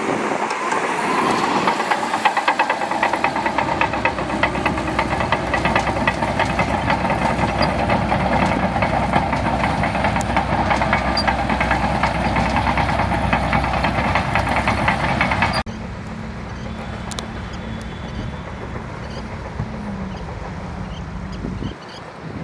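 Shantui DH17C2 bulldozer's diesel engine running under load, with a dense rapid clatter over it; about three-quarters of the way through it cuts suddenly to a quieter, steady engine hum.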